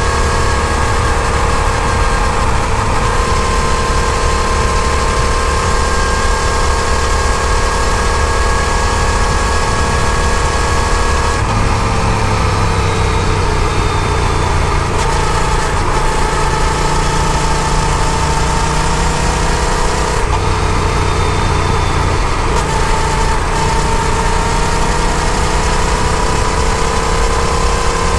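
Yamaha FZ-07 parallel-twin motorcycle engine running under way, its pitch dipping after about eleven seconds and climbing back, with a few brief breaks as the throttle or gear changes. A heavy low rumble of wind on the microphone sits under it.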